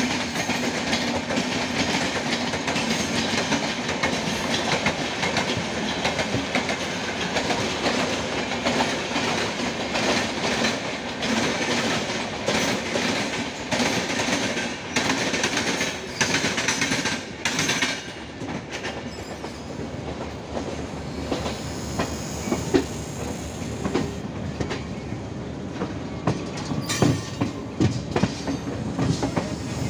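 Passenger train running at speed, heard from the open door of a coach: wheels clattering over rail joints amid a steady rumble, with a second train's coaches running alongside on the next track. The noise thins out about two-thirds of the way in, leaving sparser wheel clicks.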